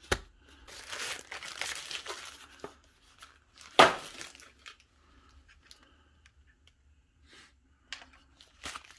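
Packaging handled while unboxing: a couple of seconds of rustling and crinkling, a short, sharp rip about four seconds in, then scattered light clicks and taps.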